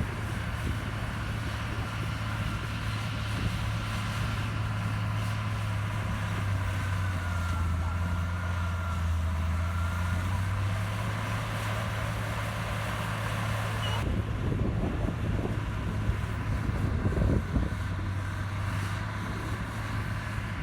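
Diesel engine of heavy earthmoving machinery running steadily with a low hum. About two-thirds of the way through, irregular knocks and clatter join in.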